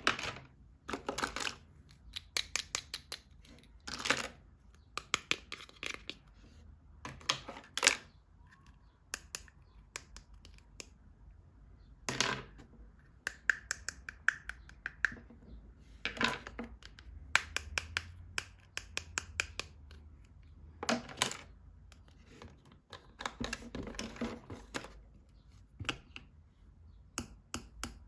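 Plastic toys and their packaging handled close to the microphone: irregular taps, clicks and short rustles, coming in clusters.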